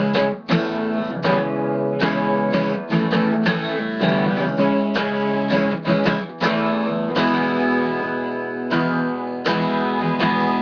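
Acoustic guitar strumming chords in an instrumental passage between sung verses.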